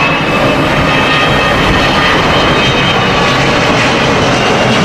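Jet airliner engines running steadily: a dense, even roar with a thin, steady high whine over it.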